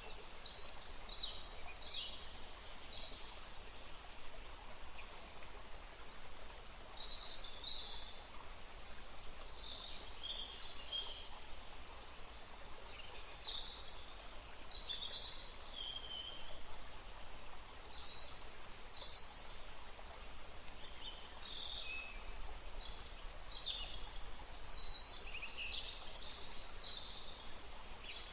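Birds calling and chirping in short bursts over a steady hiss of wind in trees and running water; the calls come most densely near the start and in the last several seconds.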